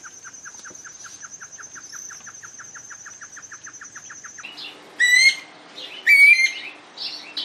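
Great antshrike singing: a long, even series of short hooting notes, about six a second, over a steady high insect trill. It cuts off about four and a half seconds in, and a different bird gives a few loud whistled calls, each stepping down in pitch.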